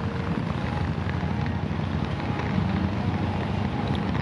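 Steady low outdoor rumble with wind buffeting the microphone, with a few faint ticks higher up.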